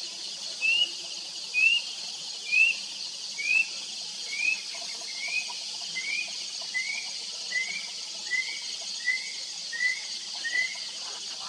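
A bird calling a long, evenly spaced series of short, clear rising whistles, a little under one a second, growing fainter toward the end. A steady high insect drone runs underneath.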